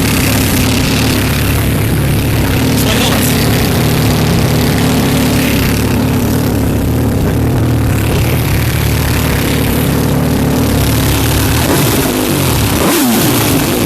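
MV Agusta 312's inline-four engine running through a Bodis aftermarket exhaust, a steady note with a brief dip and swing in revs near the end.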